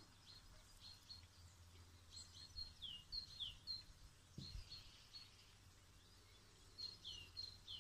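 Faint birdsong: scattered short high chirps and quick down-slurred notes, several in the first half and again near the end, over a low steady rumble. A single soft low thump sounds about halfway through.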